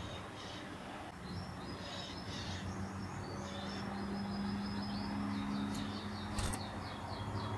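Spanish Timbrado canary singing a run of fast, high trills and repeated notes, fairly faint, beginning about a second in. A steady low hum runs underneath, and there is a single sharp click near the end.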